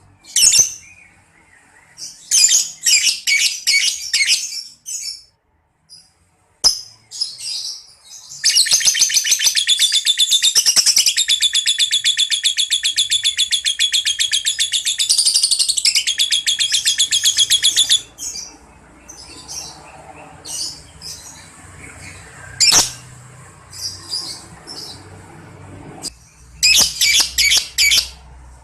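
Lovebird ngekek: one long, rapid, high chattering trill lasting about ten seconds, between bursts of short, shrill chirps.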